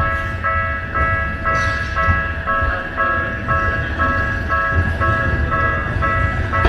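Railway level crossing alarm ringing: an electronic bell repeating a pitched ding about twice a second, over a steady low rumble of vehicles.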